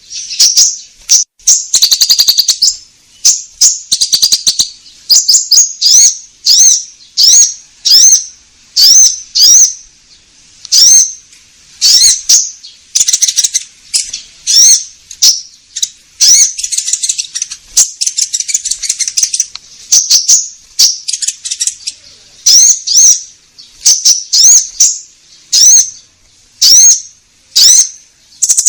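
Common iora (konin) singing a lively lure song: a continuous run of short, sharp upslurred whistled notes, roughly one a second, broken by a few quick chattering runs.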